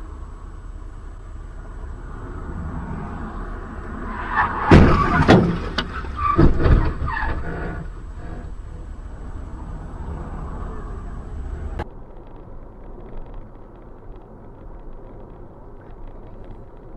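Steady road and engine noise of a car on a dashcam, broken about five seconds in by a cluster of loud bangs and crunches over about two seconds, typical of a collision. The background cuts off abruptly near twelve seconds to a quieter hum.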